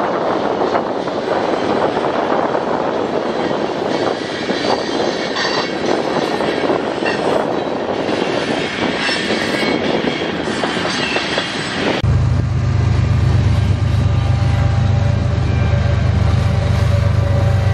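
Freight train of covered hopper cars rolling past, wheels clicking on the rails with faint squeals at times. About twelve seconds in the sound cuts sharply to a closer, heavier, steady low rumble as the rear distributed-power diesel locomotive nears.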